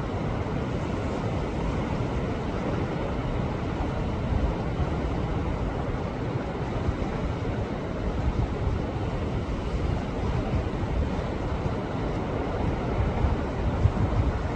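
Sea waves surging and washing against shoreline rocks: a steady rushing with a deep rumble, swelling louder near the end.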